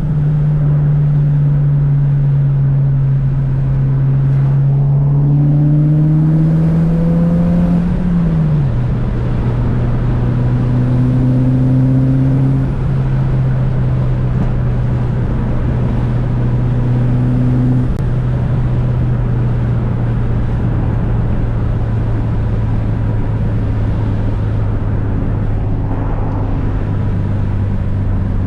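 Mitsubishi Lancer Evolution VIII's turbocharged 2.0-litre four-cylinder engine, tuned to about 400 hp, running under way. Its pitch climbs slowly for the first several seconds, falls sharply about eight seconds in, then holds steady, falling again at the very end.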